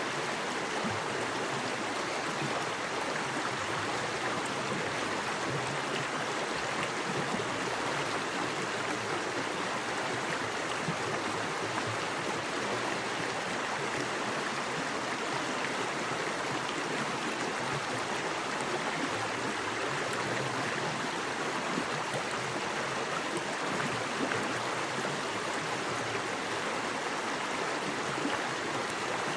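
Small forest creek with fast water rushing and splashing over rocks: a steady, even flow.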